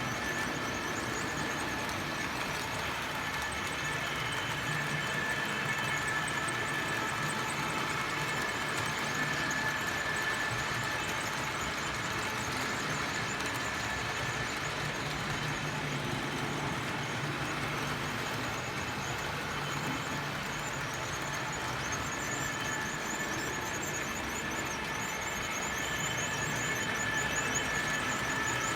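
Model trains running on a layout: the steady whir of small electric locomotive motors and wheels rolling on the track, with a high whine that fades in and out.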